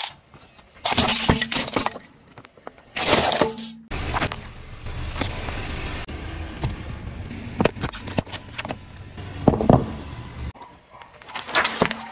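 Objects cracking and crunching under a car's tyre, in several short crackling bursts separated by abrupt cuts. A low engine rumble runs under the cracks through the middle stretch, with sharper cracks near its end.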